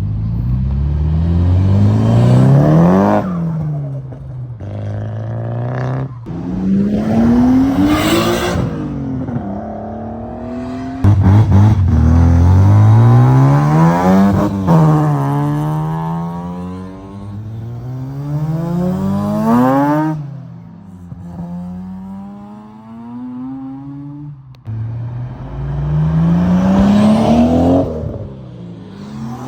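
Car engines revving hard under acceleration. The engine note climbs steeply and falls again about five times, with abrupt switches from one car to another.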